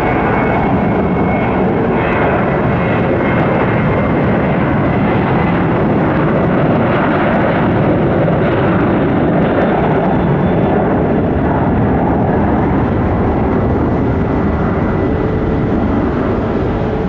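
Boeing 737-800's twin CFM56-7B turbofan engines at take-off thrust: loud, steady jet noise with a thin high whine.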